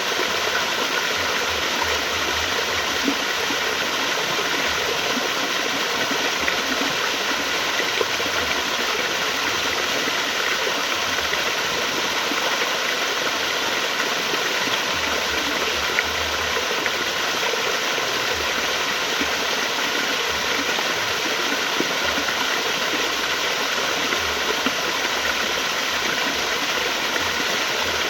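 Flowing water rushing steadily, an even constant noise with an unsteady low rumble beneath it.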